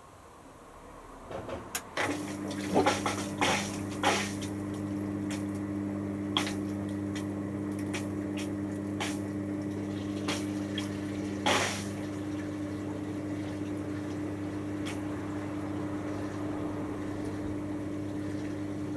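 Washing machine drain pump starting about two seconds in and running with a steady mains hum, water sloshing and gurgling through it at first as it empties the wash water at the end of the main wash.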